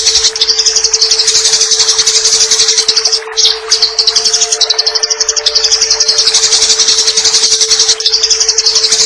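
Eurasian tree sparrows giving their rapid fighting chatter, a dense stream of very fast high chirps that runs on without a break. A steady low hum sits underneath.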